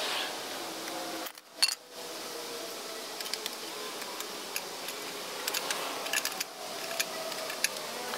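Scattered light clicks and taps of handling over a steady hiss, with faint wavering tones in the background.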